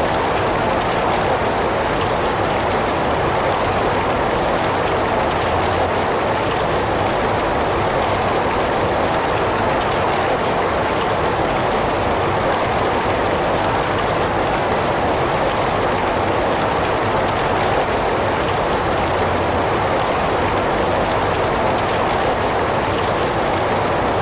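Heavy rain falling steadily, an even hiss of rain on surfaces with no thunder or changes.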